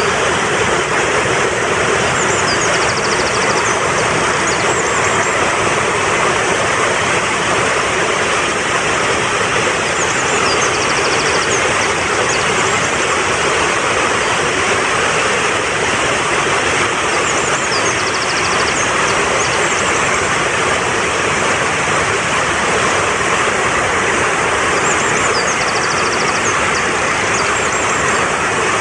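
Fast-flowing mountain stream rushing steadily. Over it, a short high bird phrase ending in a rapid trill comes four times, about every seven to eight seconds.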